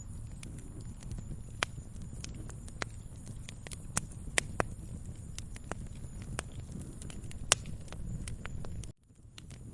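Wood fire crackling in a fireplace: irregular sharp pops and snaps over a low, steady rumble of burning. The sound cuts out briefly near the end, then returns.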